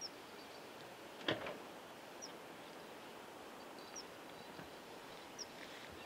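A small bird giving short, thin, high calls, four in all, about one every one and a half seconds, over a faint steady hiss. One sharp knock about a second in is the loudest sound.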